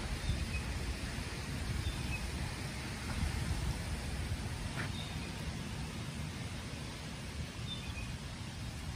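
Steady rain falling on a pond and paved path, an even hiss over a low, uneven rumble. A few faint, short bird chirps come through the rain.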